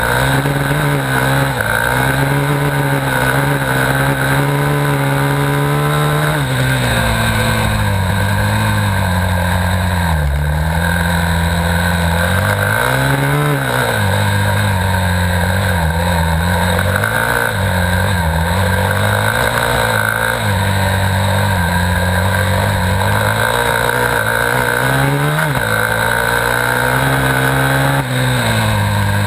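Dirt bike engine racing under load, its pitch rising and falling again and again as the throttle is worked and gears change.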